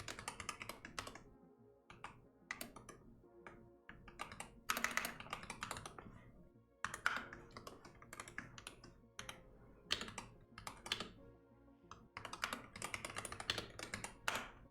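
Computer keyboard typing in quick bursts of keystrokes with short pauses between them, over soft background music.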